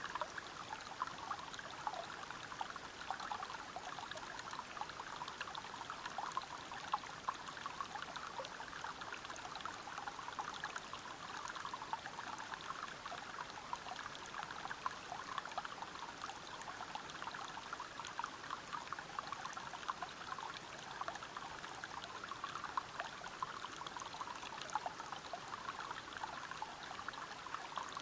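River water flowing and splashing over rocks: a steady rush, dense with small splashes and bubbling.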